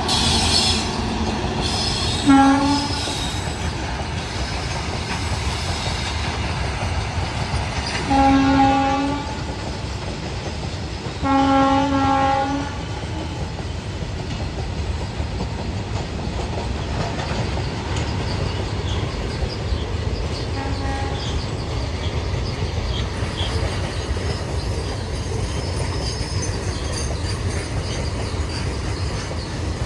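Freight train hauled by a WAG-9HC electric locomotive running with a steady rumble of rolling wagons and wheels squealing near the start. The locomotive's horn sounds four times on one steady pitch: a short blast about two seconds in, two longer blasts around eight and eleven seconds, and a faint short one later.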